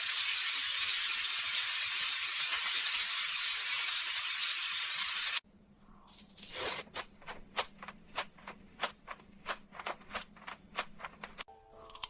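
A steady high hiss for about five seconds that cuts off abruptly, then a run of irregular crisp crackles and clicks: close-miked chewing of crunchy food.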